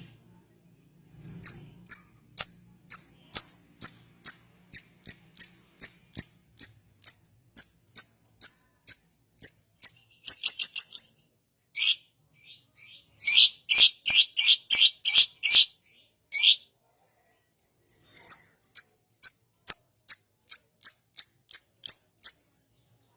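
A small bird's high, sharp chirps, repeated about two a second, breaking into a quick fast run about ten seconds in and a louder, denser run of chirps from about thirteen to sixteen seconds before the steady chirping resumes.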